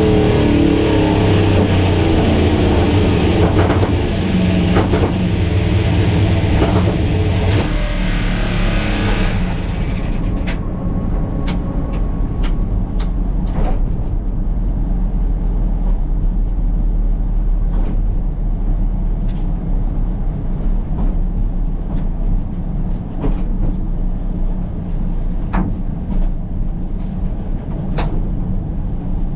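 Drag-race car engine running loud and rough, then about ten seconds in it drops away to a lower steady rumble with scattered sharp clicks.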